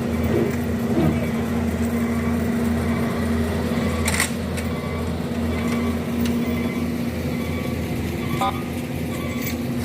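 An engine running steadily with a low, slightly pulsing hum, and a sharp click about four seconds in.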